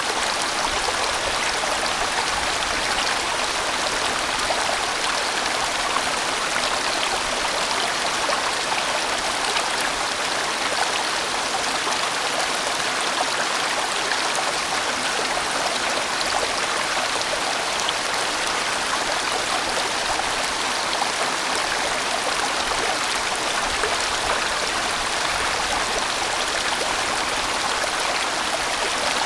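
A large, fast-flowing mountain stream rushing over rocks in a steady, continuous wash of water noise.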